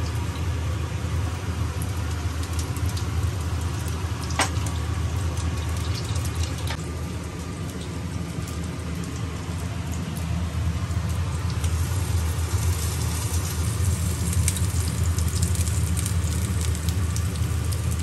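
Mutton seekh kababs sizzling in a ridged grill pan, over a steady low hum. Two sharp clicks come a few seconds in as the kababs are handled, and the crackle gets busier in the second half.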